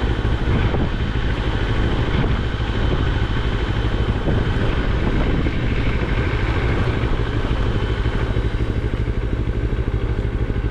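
Moto Morini X-Cape's 649 cc parallel-twin engine running steadily, with an even, pulsing exhaust note.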